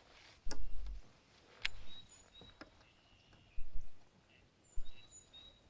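Four dull, low thuds and a few sharp clicks, with faint bird chirps in the background.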